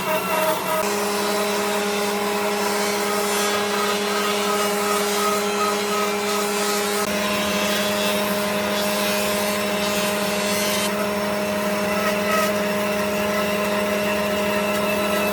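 An electric power tool's motor running steadily, its hum stepping to a new pitch about a second in and again about seven seconds in.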